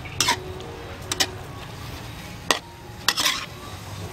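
A spatula scraping and knocking against a pan about once a second while meat and mushrooms are stir-fried, with a quiet sizzle underneath as the seasonings cook in.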